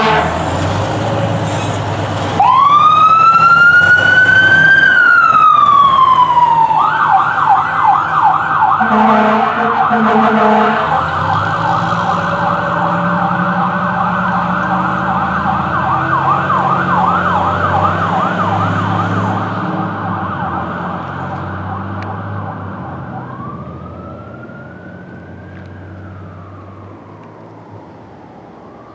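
Fire engine responding with its siren: a rising and falling wail that switches a few seconds in to a fast, rapid yelp, then back to a slow wail as the truck fades into the distance. Two short horn blasts sound during the yelp, over the truck's engine rumble.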